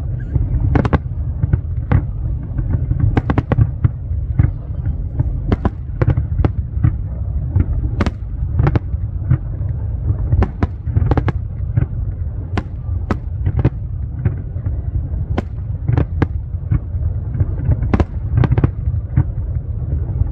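Aerial fireworks display: an irregular run of sharp bangs and cracks from bursting shells, often several a second, over a steady low rumble.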